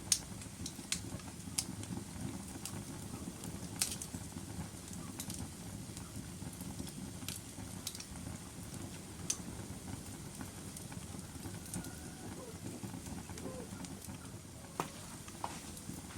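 Logs burning in a fireplace: a steady low rumble of the flames with irregular sharp crackles and pops, about eight of them, the loudest near the start and two about four and fifteen seconds in.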